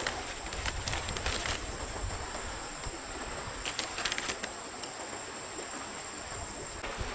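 Forest stream ambience: steady water hiss with a continuous high, thin insect drone. A few brief clicks or knocks come about a second in and again around four seconds in.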